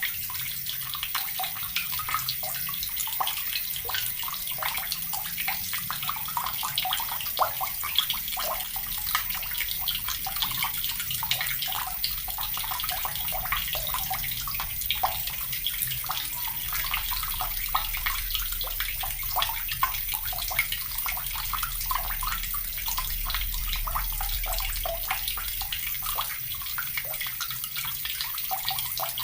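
Water tap running steadily, the stream splashing and spattering into water below in a continuous, even rush.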